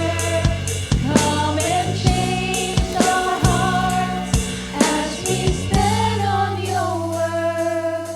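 Live worship band playing a slow song: held sung notes over sustained accompaniment, with a steady drum kit beat.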